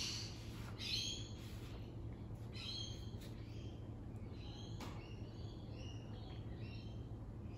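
Birds calling: a string of short, high chirping calls, some in quick runs, over a low steady hum.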